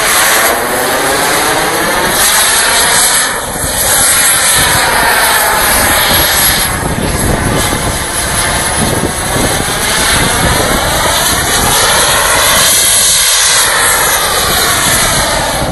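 Radio-controlled model jet's engine running loud and steady while the jet hovers. Its tone sweeps slowly up and down as the jet shifts position.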